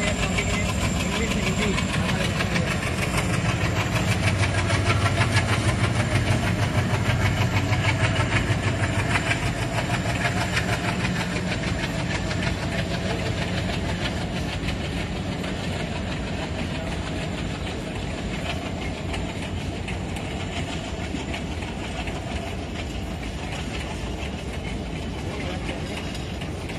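Passenger train passing: the locomotive's engine drone is loudest a few seconds in, with rapid wheel clicking over the rails. The noise of the coaches rolling by then slowly fades as the train moves away.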